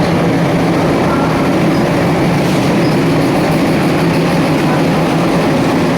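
Passenger train pulling in alongside a station platform: a steady loud rumble with a low, even hum running underneath.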